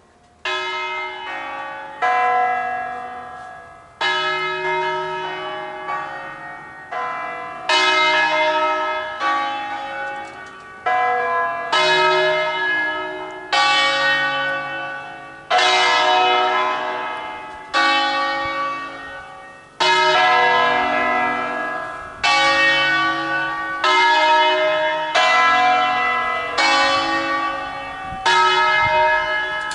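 The three largest church bells of a nine-bell ring tuned in B, cast by Angelo Ottolina in 1953, start ringing together about half a second in. Their strokes fall every one to two seconds in an irregular, overlapping pattern, each stroke ringing on as it decays under the next.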